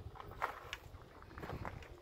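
Faint outdoor background noise with a low rumble underneath and a few soft clicks and knocks.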